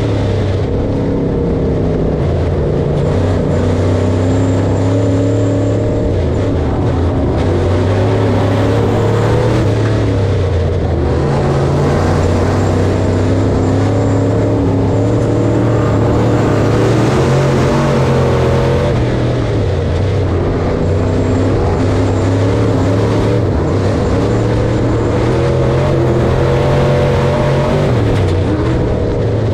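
Engine of harvest machinery running steadily under a constant load, its pitch drifting slightly up and down.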